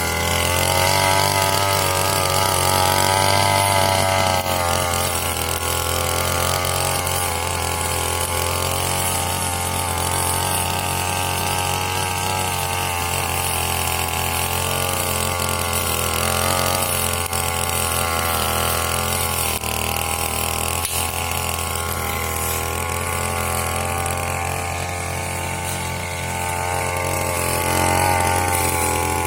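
Brush cutter (grass-cutting machine) engine running steadily, its pitch rising and falling a few times, near the start, around the middle and near the end.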